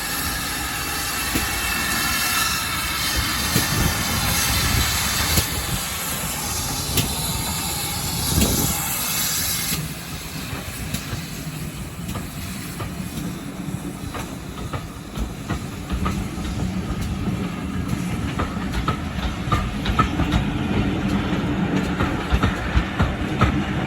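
Steam train: steam hissing loudly for about ten seconds, then cutting off suddenly, followed by the carriage wheels rumbling and clicking over rail joints.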